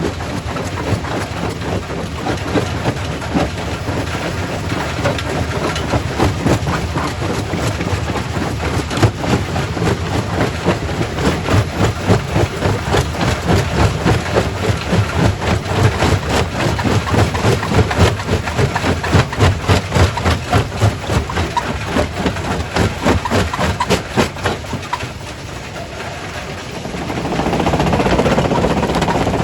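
Primary rock crusher running at a quarry: a heavy machine drone with a constant clatter of stone being struck and broken, pulsing rhythmically for a stretch. Near the end it dips briefly, then gives way to a louder, smoother rush of noise.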